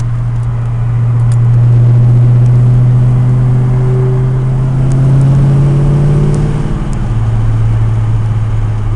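2003 Mustang GT 4.6-litre V8 running through long-tube headers, an off-road X-pipe and a Pypes Violator catback. A steady, loud exhaust drone climbs slowly in pitch as the car gathers speed, then drops about seven seconds in as the revs fall.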